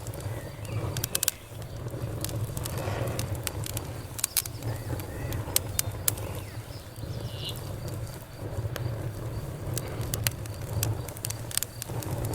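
Campfire burning, with irregular sharp crackles and pops over a steady low rumble. A brief high whistle sounds about seven seconds in.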